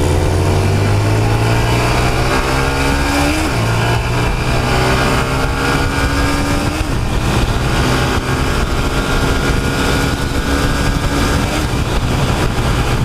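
Honda Titan 150 single-cylinder motorcycle engine accelerating at full throttle in a drag run, its pitch climbing steadily and dropping back at upshifts about 3.5 and 7 seconds in, then rising again.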